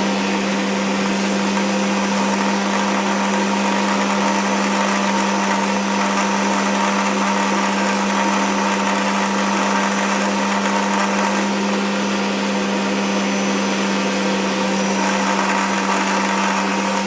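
Electric power sander running at a steady speed, sanding the ends of wooden frame pieces; right at the end it is switched off and its pitch starts to fall as the motor winds down.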